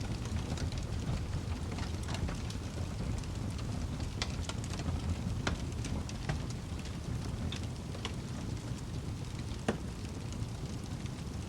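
Fireplace fire crackling over a steady low rumble, with scattered sharp pops; the sharpest pop comes near the end.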